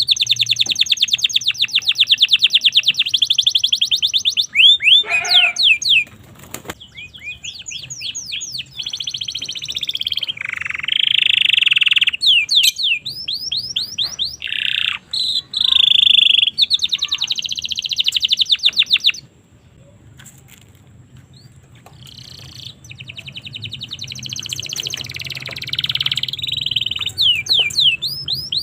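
Domestic canary singing: long phrases of very fast, high trills and rolls, one after another with brief breaks, and a short lull about two-thirds of the way through before the song picks up again.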